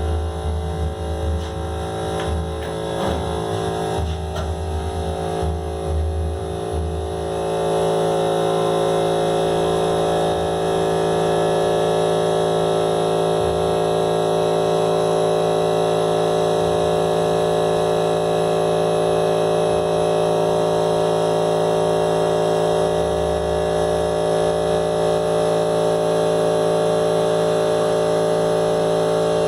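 Handheld hair dryer running continuously, a steady motor hum over rushing air, louder from about eight seconds in.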